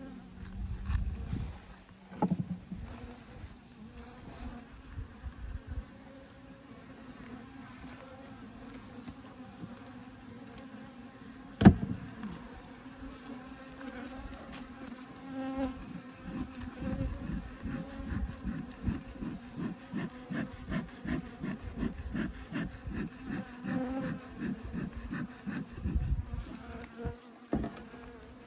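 Honeybee colony buzzing steadily in an open Layens horizontal hive, with a single sharp knock a little before halfway. In the second half the buzz pulses rapidly and unevenly.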